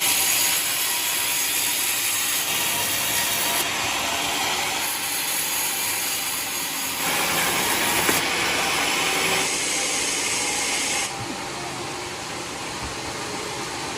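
Homemade sawmill blade cutting through a waru log, a loud, steady hissing rasp that changes abruptly in pitch and loudness several times, as between cut-together shots.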